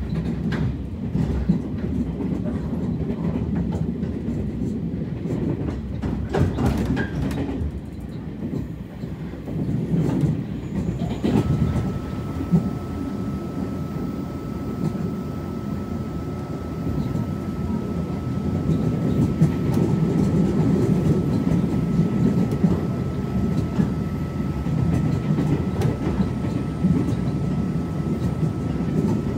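Inside a Taiwan Railway Tze-Chiang express passenger car in motion: the steady low rumble of the wheels on the track, with a few clicks about six to seven seconds in. A thin, steady high whine joins about eleven seconds in and holds.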